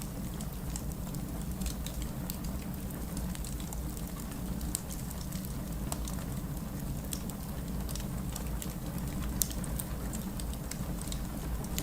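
Heavy rain with a steady low rush, over a fireplace fire crackling with frequent small, irregular pops, one sharper pop near the end.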